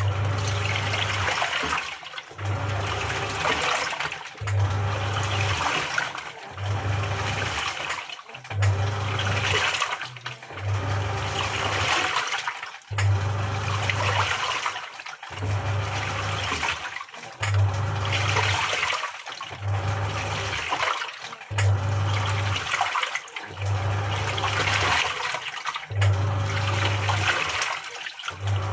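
Samsung 6.5 kg top-loading washing machine in its wash cycle: the pulsator motor hums in bursts of about a second, roughly every two seconds, churning the water, which sloshes and swirls.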